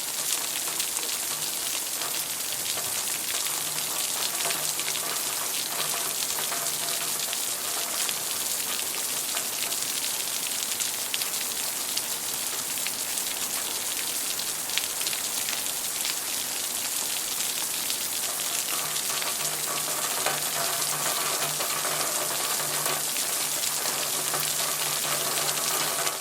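Steady rainfall in a rainforest, a dense patter of many drops hissing on surfaces, with a faint low hum that comes and goes. It cuts off suddenly at the end.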